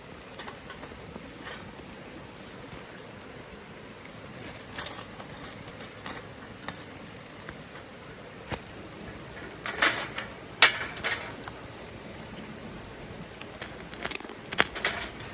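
Scattered clicks, taps and rustles of objects being handled over a steady background hiss, in short clusters that are loudest about two-thirds of the way through and near the end.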